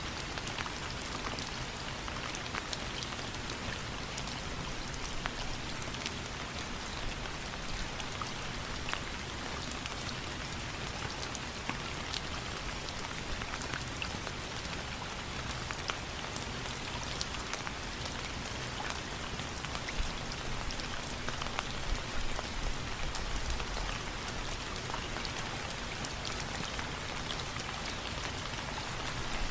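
Steady rain falling, with sharp ticks scattered through it.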